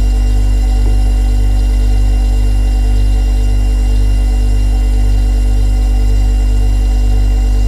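Refrigerator compressor running: a loud, steady low hum with a faint slow pulsing and steady higher tones above it.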